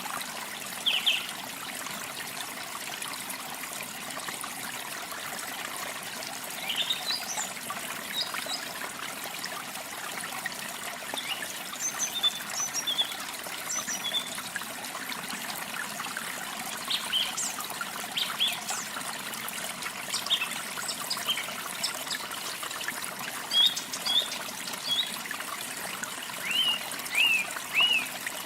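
Water trickling steadily, with small songbirds chirping in short, high bursts scattered through it, busiest near the end.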